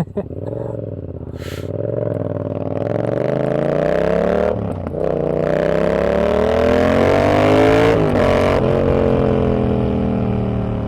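Yamaha XSR700's 689 cc parallel-twin engine through a Kelpi short full exhaust with the standard baffle, accelerating hard. The pitch climbs twice, falling back at about four and a half seconds and again at about eight seconds as it shifts up, then runs steadily.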